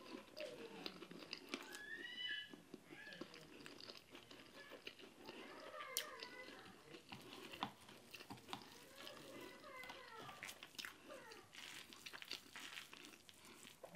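Faint chewing and wet mouth sounds of a person eating injera and vegetable stews by hand, with scattered small clicks, under faint voices in the background.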